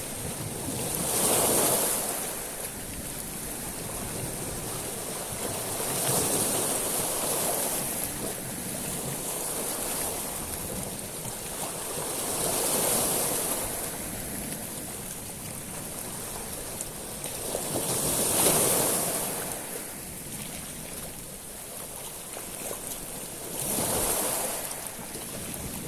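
Sea waves washing in on a beach of small stones (shingle), five surges that swell and fade about every five to six seconds.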